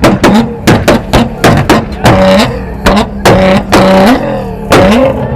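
Modified car's engine revved hard in quick repeated blips, the pitch climbing, holding briefly at the top and falling back about once a second, with sharp cracks from the exhaust between revs.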